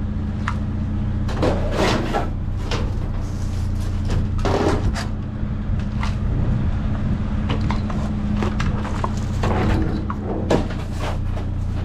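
Junk being rummaged and handled in a dumpster: irregular knocks, clatters and rustles over a steady low engine hum.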